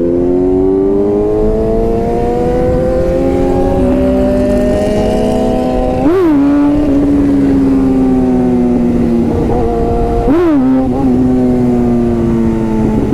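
Yamaha R6 sportbike's inline-four engine running on the move, its pitch climbing slowly under light throttle, with two quick throttle blips, sharp up-and-down jumps in revs, about six and ten seconds in.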